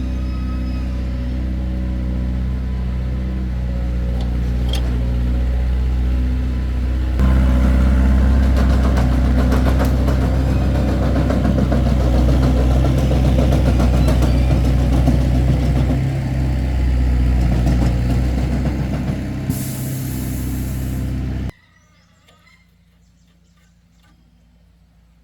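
A large engine running steadily, growing louder about seven seconds in, then cutting off abruptly near the end, with a few faint clinks after.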